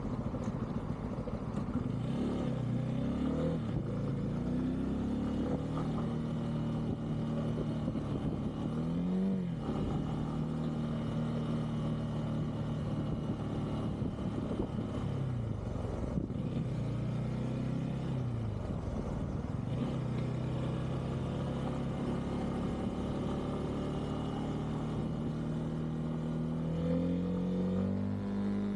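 Bajaj Pulsar N250 motorcycle's single-cylinder engine running on the road. Its pitch holds steady, then rises and drops with throttle and gear changes: a quick climb and drop about nine seconds in, a fall midway, and a climb again near the end.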